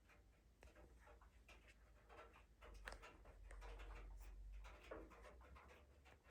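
Faint rolling rumble of a cat exercise wheel under a running Bengal cat, with soft irregular paw scuffs; it grows louder in the middle and eases off again.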